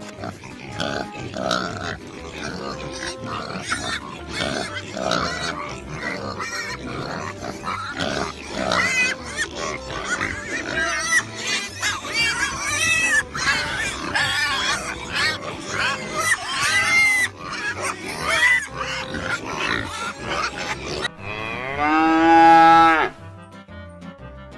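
Farm animals calling over background music: many short, squealing calls, then one loud drawn-out call about 22 seconds in.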